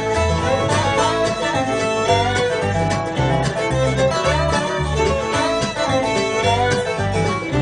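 Bluegrass band playing an instrumental break: fiddle, guitar and banjo over an upright bass walking a steady beat.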